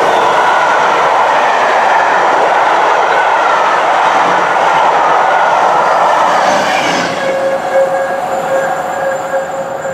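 A train passing close by with a loud, steady rush of wheel-on-rail noise. About seven seconds in it drops away and fades, leaving a steady whine.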